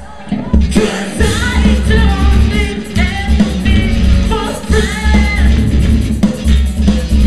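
Live post-hardcore rock band playing, with sung vocals over loud drums and distorted guitars; the sound drops briefly at the very start, then the full band comes back in.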